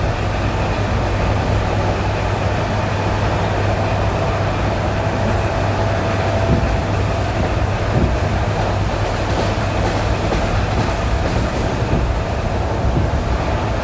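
ED9E electric multiple unit running on jointed track: a steady rumble and low hum, with the wheels clacking over rail joints a few times.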